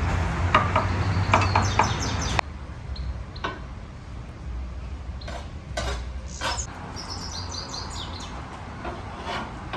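Dishes and utensils clinking and knocking, with small birds chirping, in a busy pilaf kitchen. The level drops suddenly about two and a half seconds in, and quieter scattered knocks and chirps follow.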